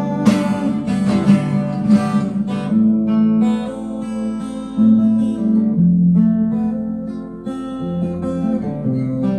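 Acoustic guitar playing alone: strummed chords for the first couple of seconds, then single plucked notes and chords left ringing. It is the instrumental close of the song after the last sung line.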